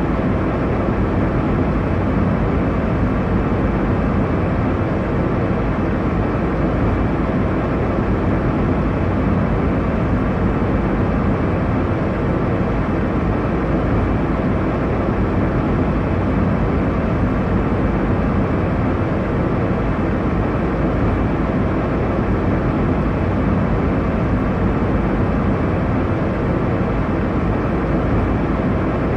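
Airliner cabin noise: an even, unchanging low rush of sound, heavy in the low range with little hiss on top.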